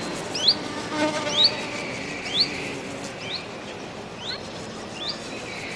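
A bird calling over and over, each call a short, sharp rising note repeated about once a second.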